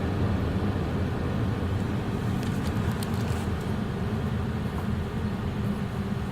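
Steady low rumble of car-wash machinery winding down at the end of the cycle, heard from inside the car, with a few faint ticks about halfway through.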